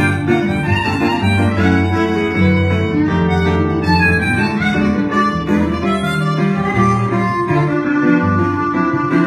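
Instrumental music played live by a small ensemble, with bowed strings carrying the melody over guitar and a low bass line.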